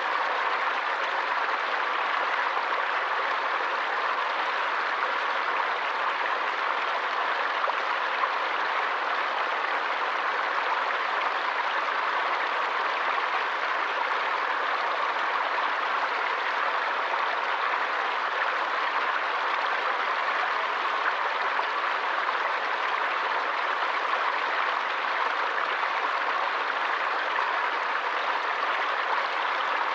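Forest stream running steadily, an even rush of water with no single splashes standing out and no deep rumble.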